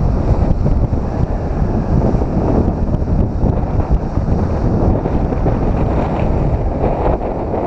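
Wind buffeting the microphone, a loud, steady low rush, over ocean surf breaking on rocks.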